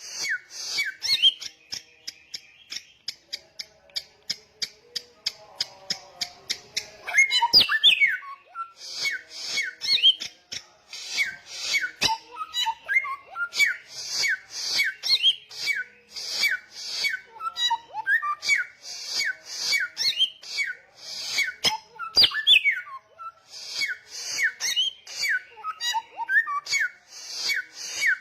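A samyong songbird singing a loud, persistent song. First comes a fast run of sharp ticking notes, several a second, then repeated phrases of rapid high chattering mixed with short whistled slurs.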